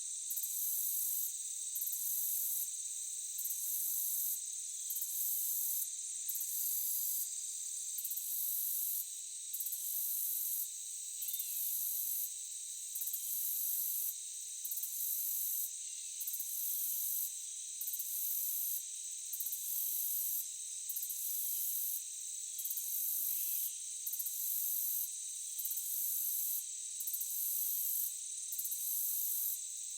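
A dense chorus of insects in a forest: several steady high-pitched trills, with a very high buzz on top that breaks off briefly about every second and a half. Faint short chirps are scattered through it.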